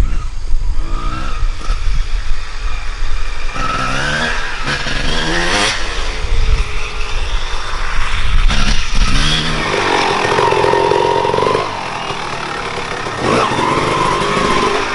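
Dirt bike engine revving up and down as it is ridden, with heavy wind buffeting on the microphone. About ten seconds in the wind drops away and the engine holds a steadier note.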